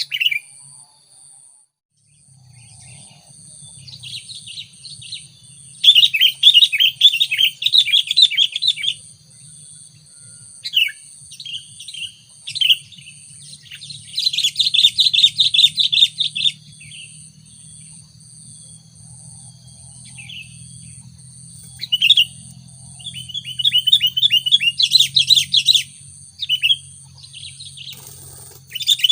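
Sooty-headed bulbul chattering calls in several loud bursts, about six seconds in, around the middle and again near the end, with short single calls between them. Behind them is a faint high tone that pulses evenly, about two times a second.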